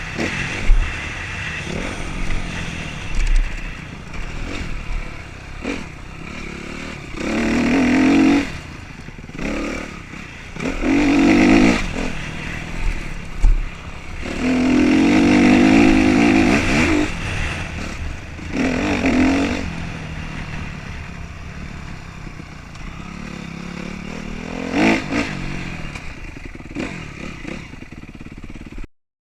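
Motocross bikes racing past, their engines revving up and dropping off in a series of passes, the loudest about 8, 11, 15 and 19 seconds in. The sound cuts off just before the end.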